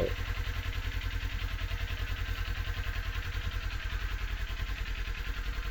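Kawasaki Z400's parallel-twin engine running at low, steady revs, with an even low pulsing beat.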